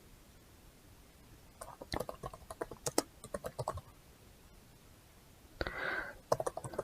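Irregular quick clicks of typing on a computer keyboard, in two spells with a pause between. A short breathy rustle comes about two-thirds of the way through.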